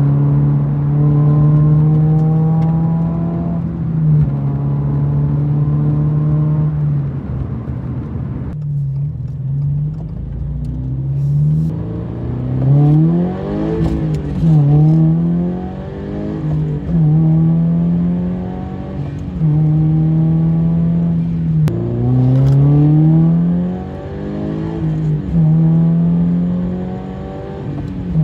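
Exhaust note of a Toyota GR86's 2.4-litre flat-four engine running through an aftermarket exhaust while driving. It holds steady at cruising revs, then rises and falls in pitch several times as the engine is revved and let back.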